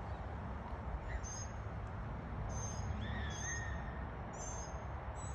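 Birds calling: short, high-pitched chirps repeating about once a second, with a lower, drawn-out call about three seconds in, over a steady low background rumble.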